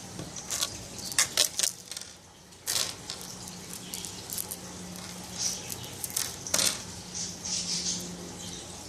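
Small beads clicking and rattling against each other as they are handled and threaded onto twine, in a scatter of light, irregular clicks.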